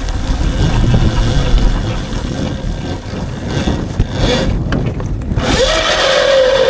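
Electric dirt bike motor whining, rising in pitch about five seconds in as it speeds up, then easing off. Heavy wind rumble on the microphone runs underneath.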